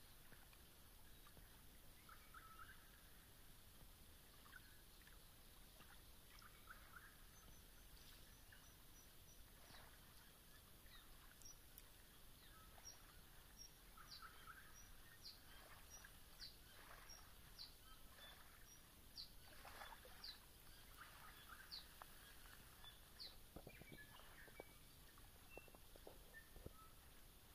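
Faint calls of several birds over a low hiss. From about halfway through, one bird repeats a short, high, falling note roughly once a second for about ten seconds.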